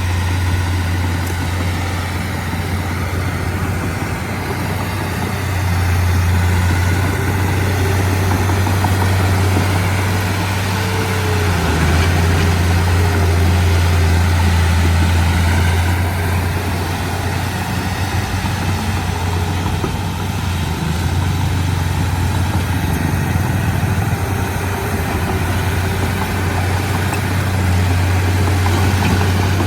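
Komatsu D31P crawler bulldozer's diesel engine running steadily with a deep hum, swelling louder and easing back every few seconds as the load on it changes.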